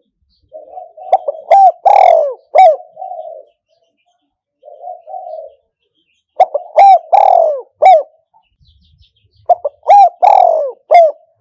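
Spotted dove cooing, as a decoy bird calling: loud, repeated coo phrases, each a soft hum followed by several sharp falling notes, with short pauses between. There are three full phrases and a shorter hum on its own.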